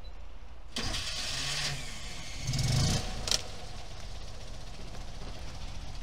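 Fiat 500F's small air-cooled two-cylinder engine being started: the starter cranks for about a second, the engine catches with a short rev about two and a half seconds in, a sharp click follows, and it settles into a steady idle.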